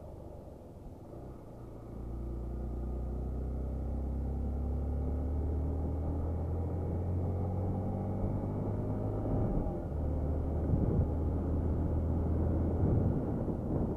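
Hero XPulse 200 motorcycle's single-cylinder engine running under way, getting louder about two seconds in and then rising slowly in pitch as it accelerates. There is a brief dip about nine and a half seconds in, after which more rushing noise mixes in.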